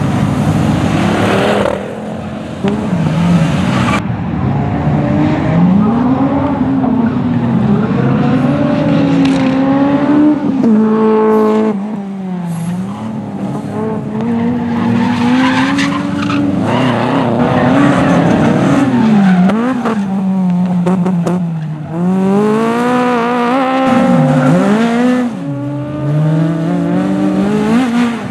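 Rally car engines at full throttle, revving up and dropping back again and again through gear changes, with tyres squealing.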